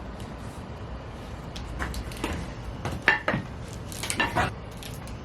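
Metal hardware clinking and knocking as it is handled and fitted: a run of sharp light clinks, loudest about three and four seconds in.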